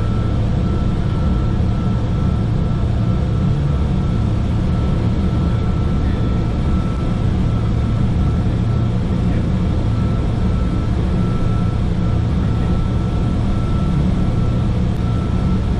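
Steady cockpit noise of a Learjet 45XR: low drone of the engines and airflow, with a faint high tone in the background.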